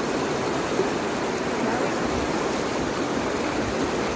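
Steady rushing noise, even and unbroken, most like running water.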